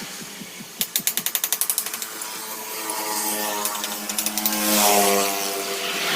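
A hand ratchet clicking in quick strokes for about a second, then a motor hum that rises in pitch over a few seconds.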